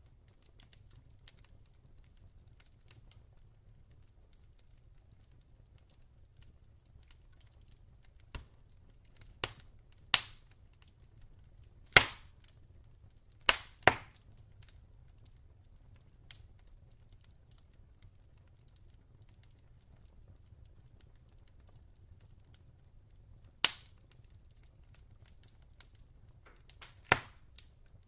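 Log fire crackling: scattered sharp pops, with a run of loud ones about ten to fourteen seconds in and two more near the end, over a faint low rumble.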